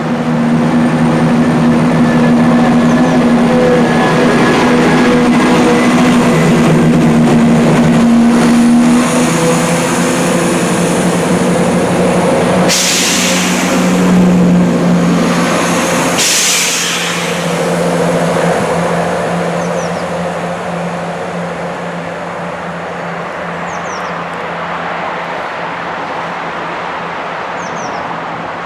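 Diesel train engine running with a steady low hum. About halfway through come two short hisses a few seconds apart, and after them the sound slowly fades as the train moves off.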